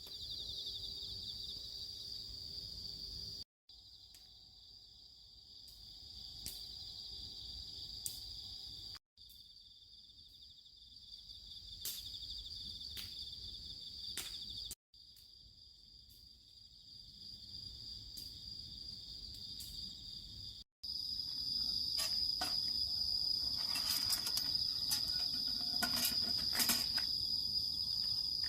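Insects chirping steadily as a high, continuous chorus. In the last several seconds it is louder, with scattered clicks and light knocks over it.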